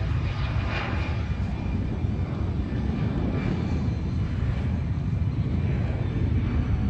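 Airplane engine running steadily, a continuous low rumble with a few slight swells in its higher tones.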